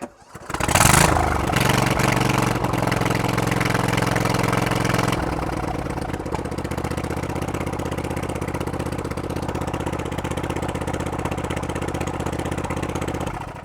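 Newly swapped-in engine of a Husqvarna riding lawn tractor cranking and catching on choke for its first start, running open with no exhaust fitted. It runs fast for about five seconds, drops to a lower steady speed, and is shut off near the end.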